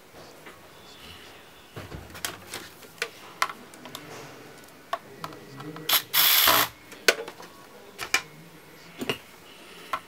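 Small clicks and taps of laptop parts and tools being handled on a workbench, with one louder, short hissing burst about six seconds in.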